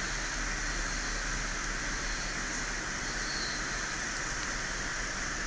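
Steady background hiss with a low electrical hum, unchanging throughout.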